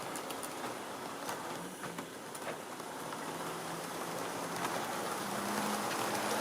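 Model railway train running on its track: a steady rolling rush of wheels on rail with a faint motor hum and occasional clicks, growing louder toward the end as it comes nearer.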